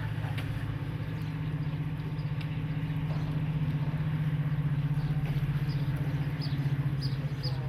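Class 55 Deltic diesel locomotive's twin Napier Deltic two-stroke engines running, a deep, steady pulsing note that grows a little louder about halfway through.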